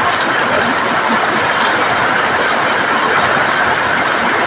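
Heavy rain falling steadily on corrugated sheet-metal roofs: a loud, even wash of noise with no let-up.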